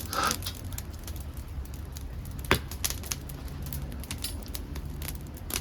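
Dead podocarpus wood crackling as it burns in a homemade pail-can secondary-combustion wood stove: scattered small pops over a low steady rumble, with one sharp loud crack about two and a half seconds in.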